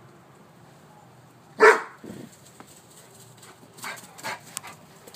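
A dog barking in alarm at the rain: one loud bark about one and a half seconds in, then a few softer barks near the end.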